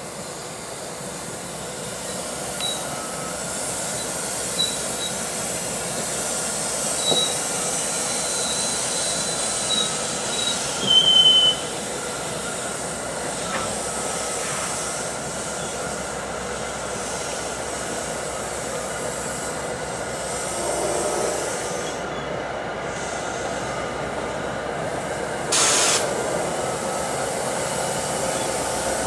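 NJ Transit commuter train of Comet V coaches rolling past, its wheels giving short high squeals over a steady rumble and hiss for the first ten seconds or so, ending in a louder squeal. A brief loud burst of hiss comes near the end.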